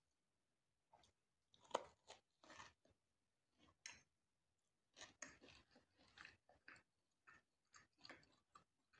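A person biting and chewing a soft, seed-topped bread roll close to the microphone: faint, irregular short chewing sounds, the loudest bite about two seconds in.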